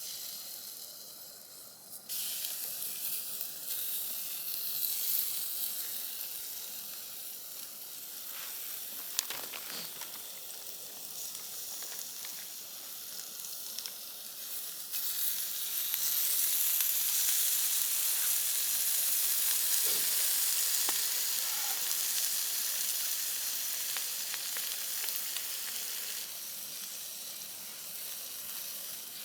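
Food frying in a hot pan, a steady high sizzle. It starts at once, grows louder about two seconds in and again around the middle, then eases a little near the end, with a few faint pops.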